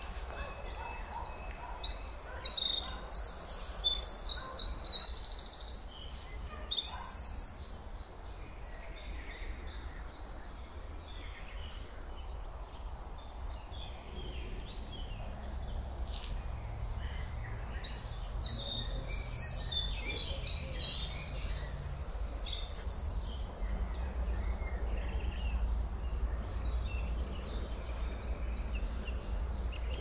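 A songbird singing two long songs of rapid, high trilled notes, each about six seconds, the second starting roughly ten seconds after the first ends, with fainter bird calls and a low steady rumble underneath.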